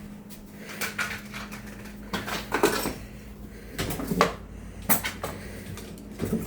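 Objects being handled, like dishes or cupboards: a string of separate knocks and clatters over a steady low hum.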